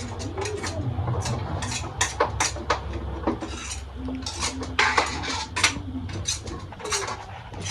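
Plates and cutlery clinking repeatedly as food is dished out, many short sharp clinks at irregular intervals.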